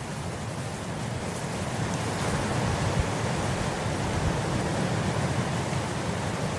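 Wind blowing through grass: a steady rushing noise with a low rumble, swelling slightly a couple of seconds in.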